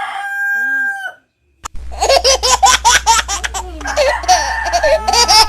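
A rooster's crow, held on one pitch, ends about a second in. After a short break and a click, a low steady hum comes in under quick repeated laughing.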